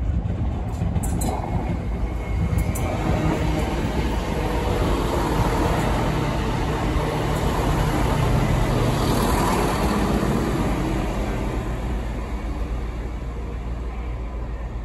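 A CrossCountry Class 170 Turbostar diesel multiple unit running through the platform at close range. Its underfloor diesel engines and wheels on the rails make a steady rumble that swells as the train passes and then eases off. A few sharp clicks come near the start.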